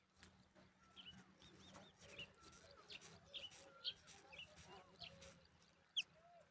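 Faint bird calls: many short, high chirps and curving whistled notes, scattered unevenly, with one sharper chirp near the end.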